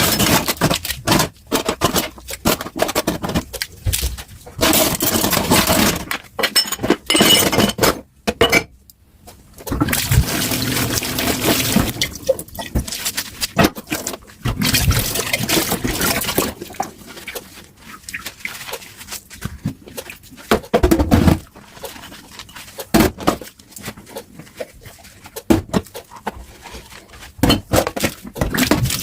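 Dishes being washed by hand under a running tap: water splashing into the sink, broken by frequent clinks and knocks of dishes. The sound drops out briefly a little over 8 seconds in.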